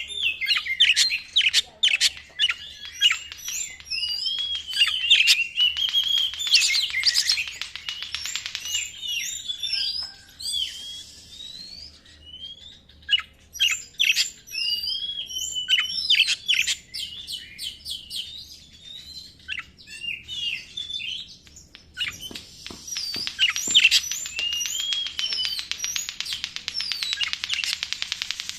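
Oriental magpie-robin (kacer) singing a loud, varied song of whistles and sweeping slurred notes. Twice it breaks into long runs of very rapid, harsh repeated notes: the buzzing, rattling 'konslet' style of song.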